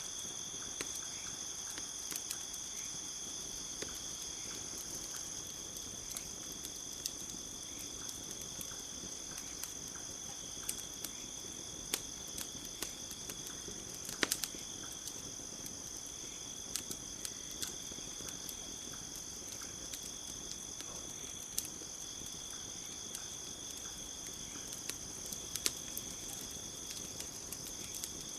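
Campfire crackling, with scattered sharp pops, the loudest about halfway through, over a steady chorus of crickets.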